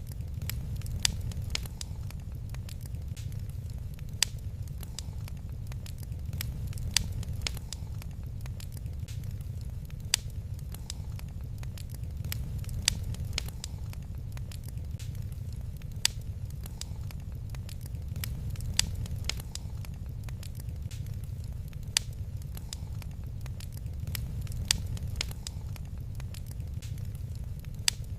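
Wood fire crackling in a fireplace: scattered sharp pops and snaps, a louder pop every few seconds, over a steady low rumble of the flames.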